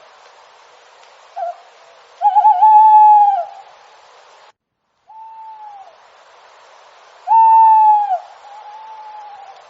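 An owl hooting: clear, tonal hoots about a second long, each dropping in pitch at the end, two loud ones about two and seven seconds in, with fainter hoots between. The background hiss drops out for a moment about five seconds in.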